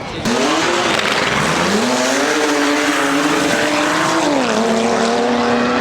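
A drifting car's engine held at high revs while its tyres squeal, starting abruptly. The revs climb about a second and a half in, hold steady, then drop slightly about two-thirds of the way through.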